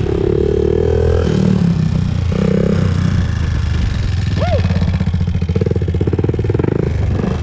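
Honda TRX400EX ATV's single-cylinder four-stroke engine running under way, its note rising in the first second, then the throttle opened and eased off several times.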